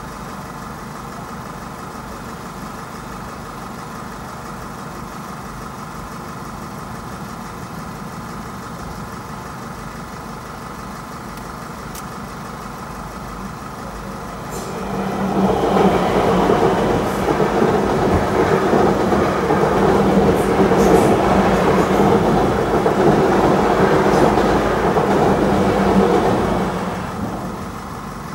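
Electric passenger train running through a level crossing. Its wheels and running gear on the rails build up quickly about 15 s in, hold loud for about twelve seconds, then fade as it clears. Before that there is a steady, quieter background of waiting traffic.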